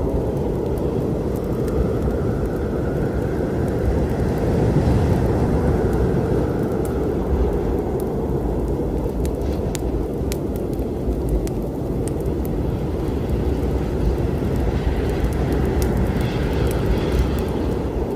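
A steady low storm rumble with sparse, sharp crackles and pops from a wood fire scattered through it.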